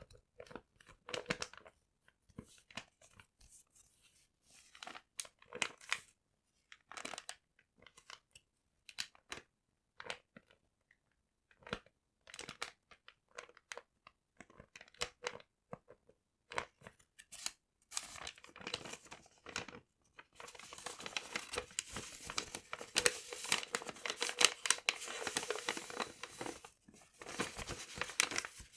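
Paper handled close up for ASMR: short, separate crinkles and tears at first, then a dense run of crinkling and tearing about two-thirds in, broken by a brief pause before the end.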